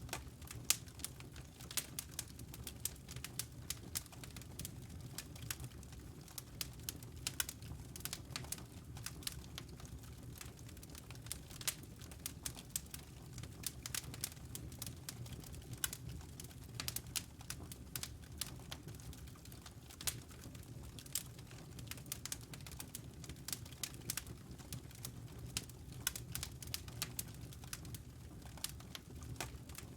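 Wood fire crackling in a fireplace: many sharp, irregular pops and snaps over a low steady rumble of the flames.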